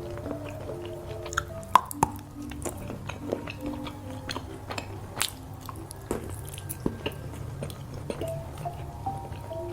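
Close-miked chewing of a piece of red chocolate, with irregular wet clicks and crackles from the mouth, over soft background music with a simple melody.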